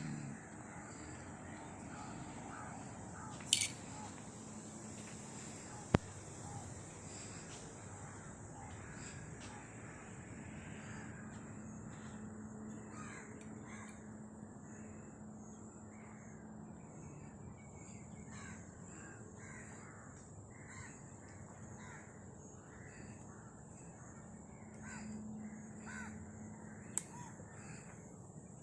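Birds calling repeatedly outdoors over a steady high hiss, with a few sharp clicks.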